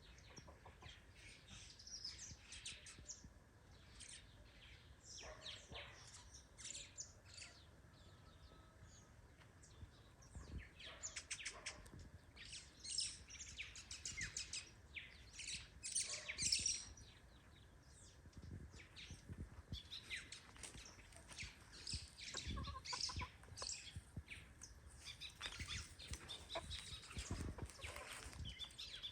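Birds chirping, many short high calls one after another, fairly faint.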